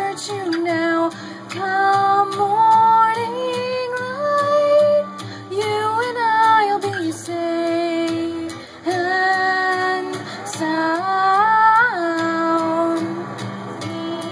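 Two female voices singing long, held wordless notes in harmony over an acoustic guitar accompaniment, in a slow ballad.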